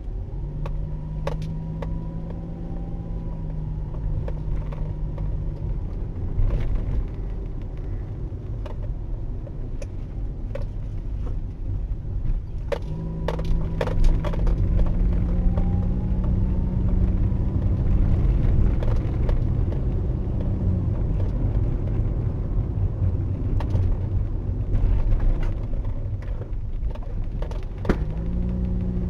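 Car driving along a road: a steady low rumble of road and tyre noise under the engine's hum. The engine tone fades out for several seconds and comes back a little higher. Scattered light clicks and knocks are heard throughout.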